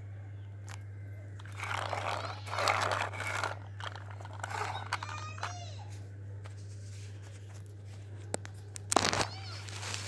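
Hands handling small model parts: bursts of crunching and crinkling, a few squeaks, then sharp clicks and a louder rattle near the end, over a steady low electrical hum.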